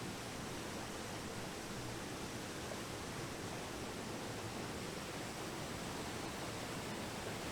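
Steady, unbroken rushing noise that spreads evenly from low to high pitch, with no changes.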